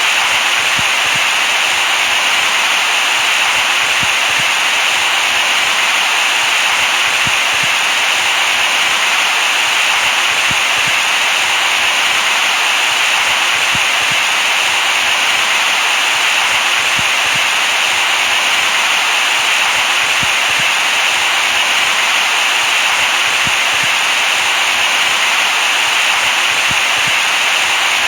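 Steady white noise: an even, bright hiss with little bass, unchanging throughout.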